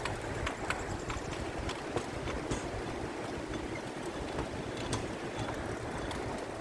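Pedal-powered railcar rolling along the rails: a steady rumble of the wheels on the track with scattered sharp clicks and ticks.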